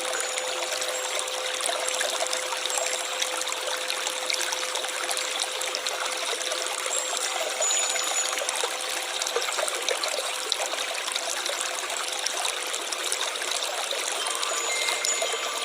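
Stream water trickling and running steadily, an even rush of flowing water with no pauses.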